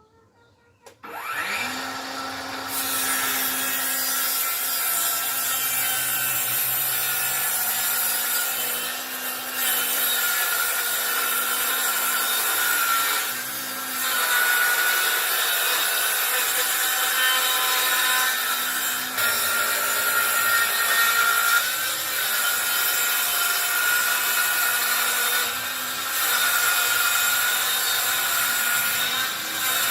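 Circular saw spinning up about a second in, then running steadily while cutting through wood, with about five brief dips in the sound.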